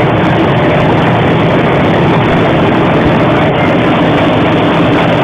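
Steady, loud rumble and noise of a running train, recorded through a mobile phone's microphone.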